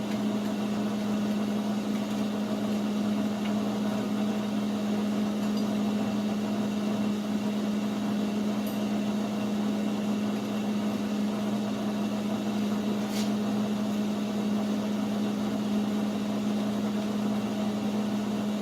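Steady low machine hum with one strong unchanging tone, and a single sharp click about thirteen seconds in.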